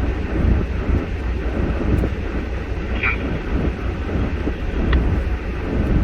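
Steady low rumble of a vehicle driving on snow-covered streets, heard from inside the cab. A brief high-pitched squeak comes about three seconds in.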